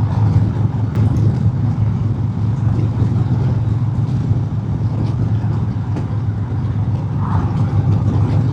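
Harley-Davidson Road King Special's Milwaukee-Eight V-twin running steadily at highway cruising speed, a constant low drone under wind and road noise on the helmet microphone.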